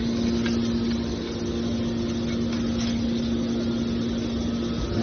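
Steel drum baler running with a steady mechanical hum of one constant pitch, typical of its hydraulic pump motor.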